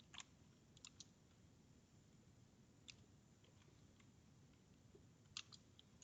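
Near silence broken by a few faint, scattered clicks from working a computer's keys and mouse: a small group about a second in, one near the middle, and a close pair near the end.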